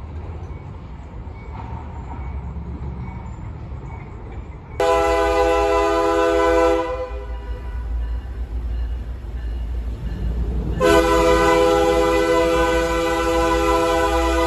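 Locomotive air horn on a CSX train sounding two long blasts, a chord of several tones: one about five seconds in lasting about two seconds, the other starting near the end and still held. A low rumble of the train runs underneath.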